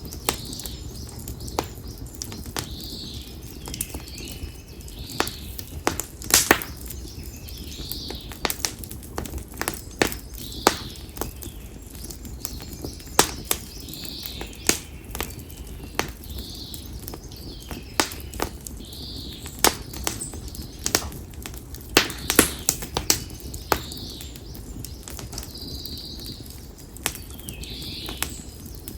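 Konara oak firewood crackling in a bonfire, with sharp pops and snaps at irregular moments. A bird calls over and over, every few seconds.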